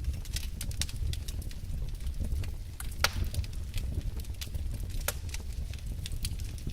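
Wood fire burning in a fireplace: irregular crackles and pops of burning logs over a steady low rumble of the flames, with a louder snap about three seconds in and another about five seconds in.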